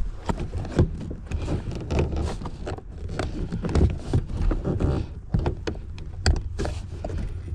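Irregular run of short clicks and knocks over a low rumble, from handling and plugging the truck's RF hub module connectors back in.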